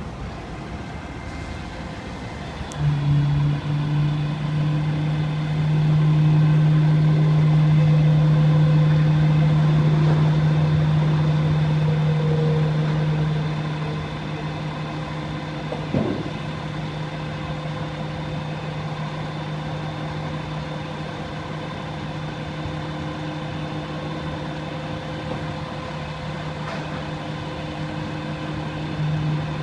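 Mack Granite dump truck running with a steady droning hum that comes in about three seconds in, is loudest for about ten seconds, then eases to a lower level until it stops near the end. There is a single sharp knock about halfway through.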